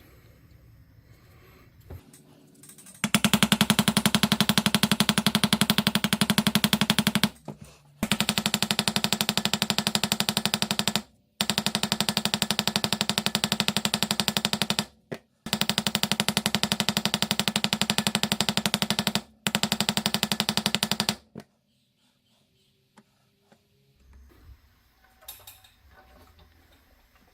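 A power tool running in five bursts of a few seconds each, each burst a fast, even rattle, with short pauses between them.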